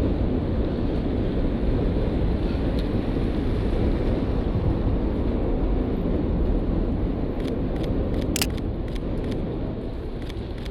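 Steady low rumble of street traffic, then from about seven and a half seconds in a run of sharp camera shutter clicks from a Sony A7III, several in quick succession.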